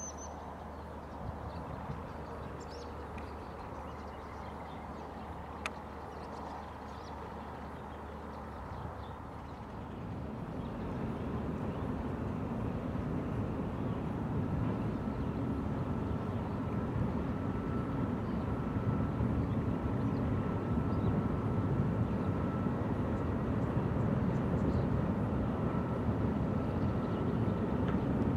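Freight train hauled by an electric locomotive crossing a steel truss railway bridge: a low rumble that starts to swell about a third of the way in and keeps growing louder, with a faint steady whine over it in the later part.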